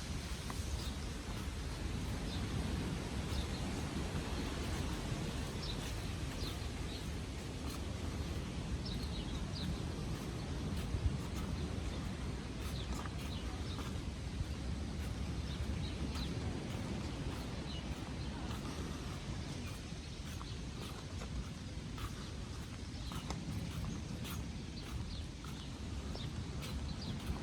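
Birds chirping in many short, high calls over a steady low rush of wind and surf.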